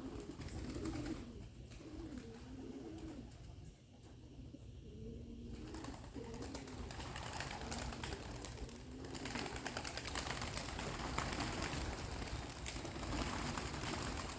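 Domestic pigeons cooing, repeated low rolling coos overlapping one another, with a broad rustling noise joining about six seconds in.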